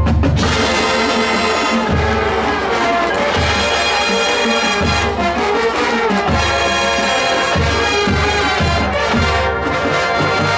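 High school marching band playing, the brass section sounding loud, full sustained chords over a low bass part that pulses about every second and a half.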